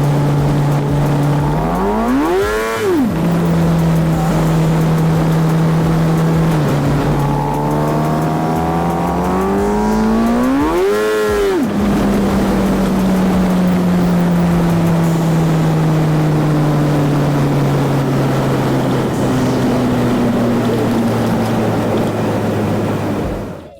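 Kawasaki ZX-10R inline-four sport-bike engine under way, twice surging sharply up in revs and dropping straight back, about two seconds in and again around eleven seconds after a slower climb, then running steadily with slowly falling revs. The surges are the fault the rider complains of: in fifth gear the revs leap toward redline in under two seconds, as if the bike were still in first.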